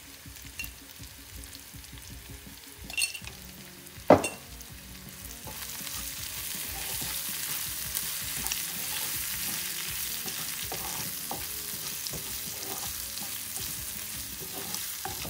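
Beef liver pieces frying with onions and green chillies in a frying pan, sizzling as a wooden spoon stirs and scrapes through them; the sizzle grows louder about five and a half seconds in. A sharp knock about four seconds in.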